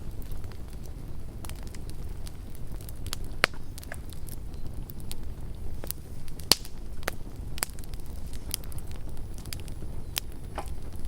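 Campfire burning, the wood crackling with scattered sharp pops over a low rumble of flame; the two loudest pops come about three and a half and six and a half seconds in.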